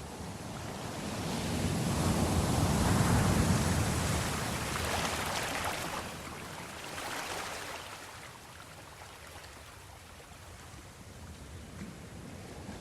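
Sea waves washing in and out, one large swell building to a peak about three seconds in and subsiding, then a smaller one around seven seconds.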